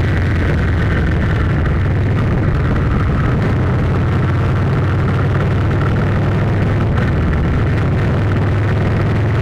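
A steady low engine rumble, unchanging throughout.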